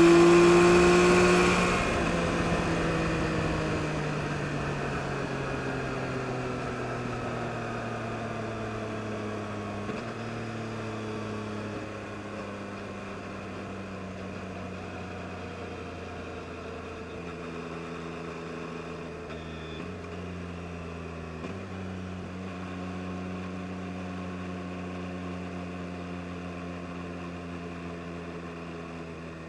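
2022 Yamaha MT-09 SP's inline three-cylinder engine revving up hard for about a second and a half. It then eases off, its note falling slowly and growing quieter, with a few gear changes along the way.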